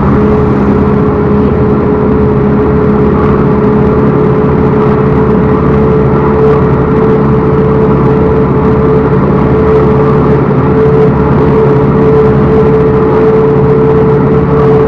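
Backhoe loader's diesel engine running loud and steady at a constant speed, close to the microphone.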